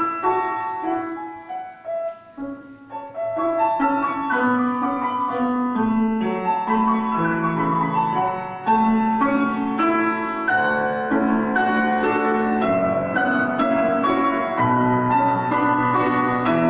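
Solo piano playing a slow, lyrical classical piece, dropping to a quiet passage a second or two in, then resuming fuller.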